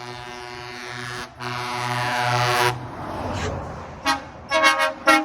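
A lorry's air horn sounding a long held chord in two blasts, then several short, high-pitched calls about four seconds in.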